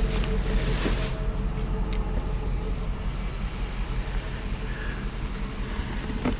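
A vehicle driving: a steady low engine and road rumble, with a rushing hiss of wind that drops away about a second in.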